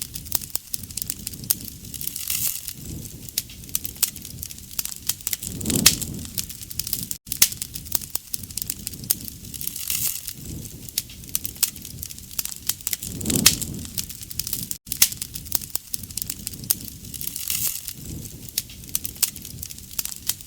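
Wood fire burning: dense crackling and sharp pops over a low rush of flame that swells every few seconds. The sound cuts out for an instant twice.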